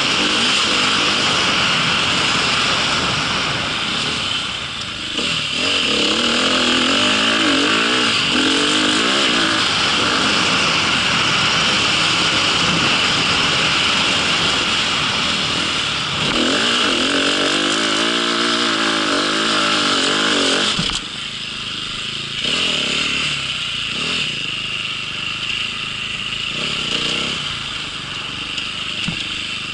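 A small vehicle's engine running during a ride, its pitch rising and falling as the revs change, with a steady hiss over it. It drops in level about two-thirds of the way through.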